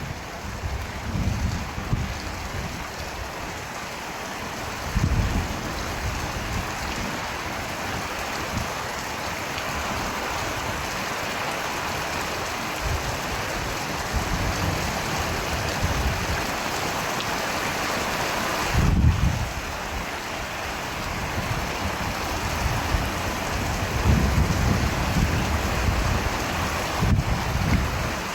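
Steady rain falling as an even hiss. Short low rumbles come and go under it, the strongest about two-thirds of the way through and several more near the end.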